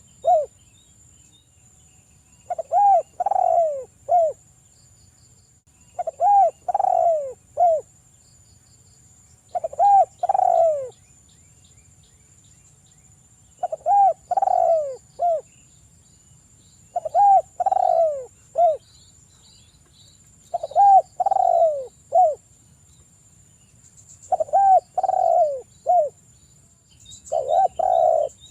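Spotted dove (derkuku) singing its cooing song over and over, a short phrase of several cooing notes ending in a brief clipped note, repeated about every three and a half seconds, about eight times.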